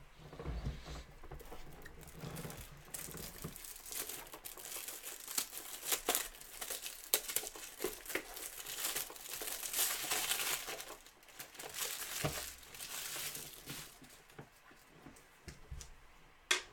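Crinkly plastic shrink-wrap being torn and crumpled off a sealed trading-card box, a long run of crackling rustles and small snaps that dies away near the end.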